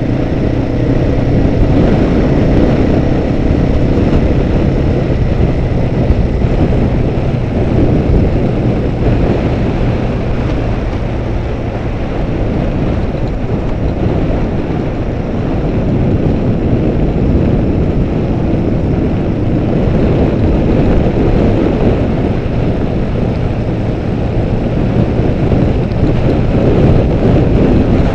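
Motorcycle riding along at a steady speed: a steady engine tone under a dense rush of wind and road noise. The engine note is clearer for the first few seconds.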